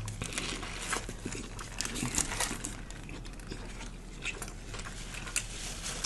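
Close-miked chewing of a lettuce-wrapped sub sandwich: irregular small crunches and wet mouth clicks throughout.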